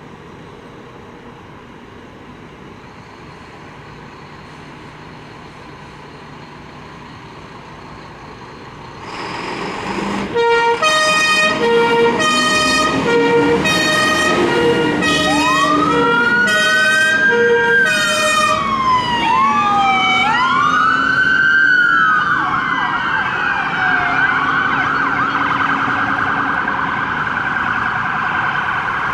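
UK emergency vehicle sirens approaching through traffic. After quiet road noise, a loud pulsing siren starts about nine seconds in, sounding about once a second, then a wailing siren rises and falls. It switches to a fast yelp for the last several seconds.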